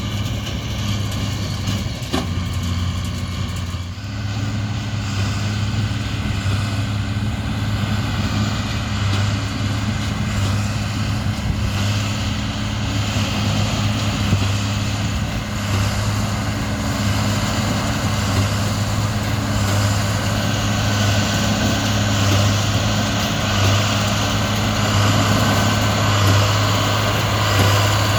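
Large diesel engine of a farm vehicle or grain truck running steadily under load, with a deep, even hum. Its pitch steps about four seconds in.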